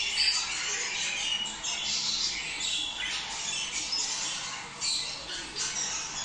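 A flock of budgerigars chattering without a break, many overlapping chirps and squawks: budgie courtship chatter.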